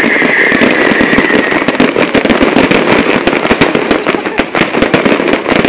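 Fireworks going off in a dense, rapid barrage of crackling bangs, with a high whistling tone that fades out in the first couple of seconds.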